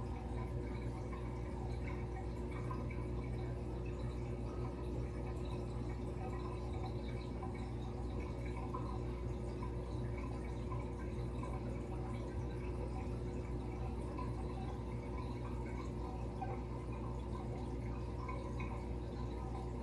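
Aquarium water trickling and splashing steadily, as from a filter return falling into the tank, over a steady low hum.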